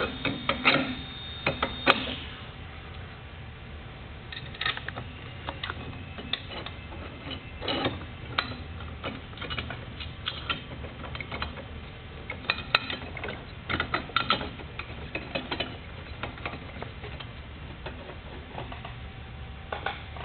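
Scattered clicks and light metallic knocks of chop saw parts being handled and fitted back together by hand, over a low steady hum.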